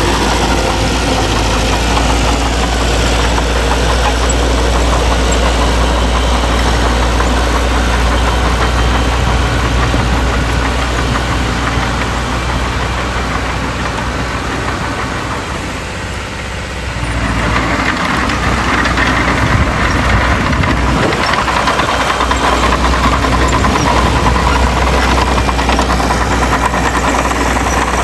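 Diesel engines of heavy earthmoving machinery running with a steady, knocking diesel clatter. About sixteen seconds in the sound dips briefly, then picks up louder with more high-pitched rattle.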